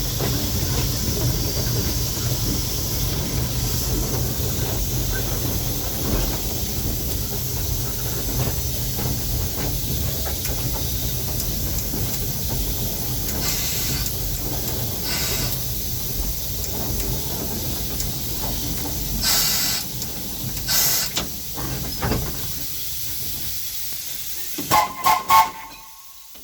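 Narrow-gauge steam locomotive heard from its cab while running: a steady rumble of wheels and machinery with a constant hiss of steam. A few louder steam hisses come past the middle, then three short whistle toots near the end, after which the running noise fades.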